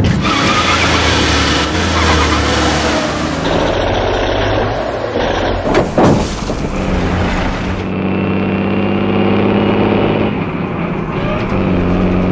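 Car and truck engines running in a chase, in several short edited pieces that change abruptly, with a short sharp loud hit about six seconds in.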